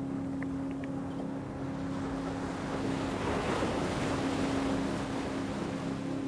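Ocean wave surging in and washing back, swelling to a peak about halfway through, over a steady low drone.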